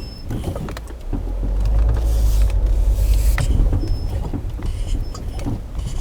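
Renault Logan rolling slowly, a low rumble with scattered crunching clicks and creaks from the front suspension. The crunch persists with new front brake pads fitted, and the owner wonders whether the inner CV joints are to blame.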